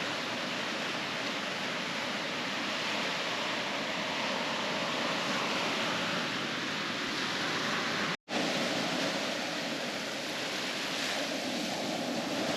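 Steady wash of ocean surf breaking on a beach, cutting out completely for a moment about eight seconds in.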